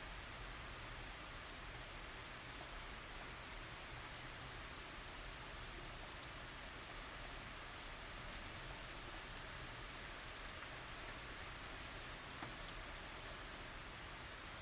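Steady rain falling, an even hiss of many small drops pattering on surfaces, with no thunder.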